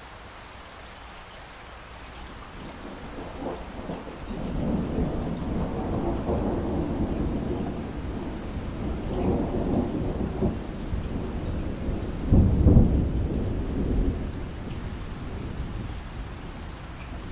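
Rolling thunder over steady rain. The rumble builds a few seconds in, swells in waves, peaks with a heavier crack about two-thirds of the way through, then fades back under the rain.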